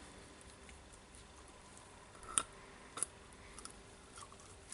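A few faint small metal clicks as a spring ring (retaining ring) is handled and fitted into a rotary hammer's striker assembly. Two sharper clicks come a little past halfway, then a few lighter ticks.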